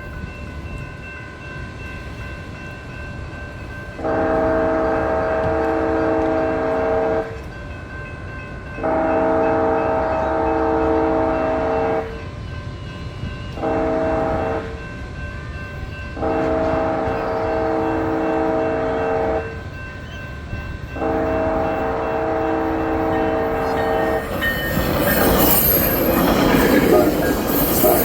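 Wayside crossing horn, played through a speaker at the grade crossing, sounding a multi-tone chord in five blasts: long, long, short, long, long. Near the end an Amtrak Pacific Surfliner passes with loud rumbling and high-pitched wheel noise.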